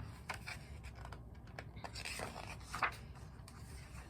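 Faint rustling and scraping of paper, a few soft brushes in a row: a picture book's pages being handled and turned.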